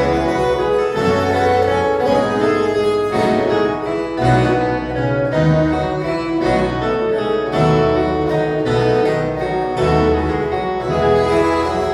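A viola caipira orchestra playing an instrumental piece: many plucked steel strings ringing in chords over a bass line that moves about once a second.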